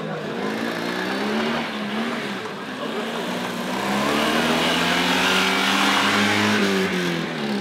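Small classic car's engine accelerating hard and passing close by, its revs climbing. Near the end the revs drop sharply at a gear change, then start climbing again.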